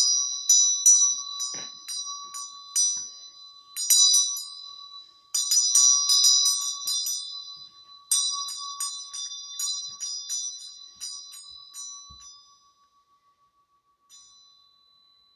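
Small high-pitched bells rung in runs of quick strikes over a steady ringing tone, dying away after about thirteen seconds, with one last faint strike near the end.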